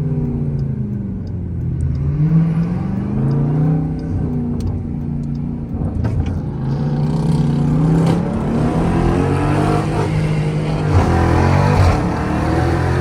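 Jeep Grand Cherokee Trackhawk's supercharged 6.2-litre V8 revving up and dropping back several times under hard acceleration, its pitch climbing steeply again near the end. In the second half a hiss of rain and wet tyres joins it.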